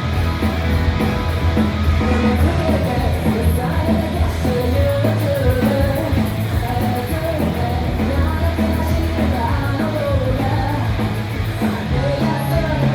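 Live rock band with lead vocals, electric guitars, bass, keyboard and drums playing a punk-rock J-pop song, a singer carrying the melody over the full band.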